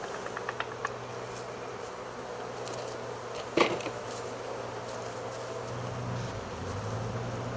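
A swarm of honey bees buzzing steadily. There are a few light ticks in the first second and one sharp knock about three and a half seconds in.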